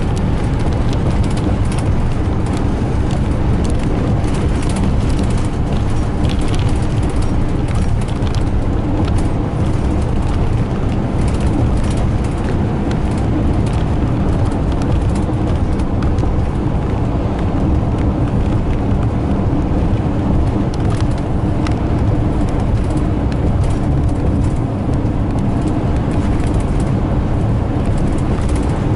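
Steady engine and road noise of a car driving along, unbroken throughout.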